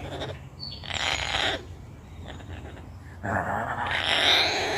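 Pet bird giving two harsh, raspy squawks, a short one about a second in and a longer, louder one near the end, in protest at being handled.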